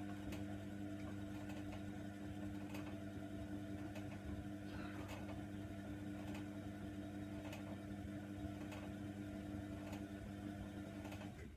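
Hoover Nextra washer dryer running: a steady motor hum with faint irregular ticks, cutting off suddenly near the end.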